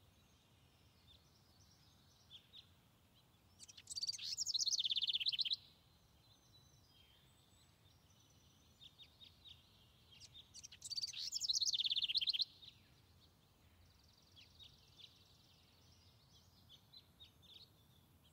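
A songbird singing: two bright trilled phrases of rapid high notes, about four and eleven seconds in, each under two seconds long, with faint chirps between.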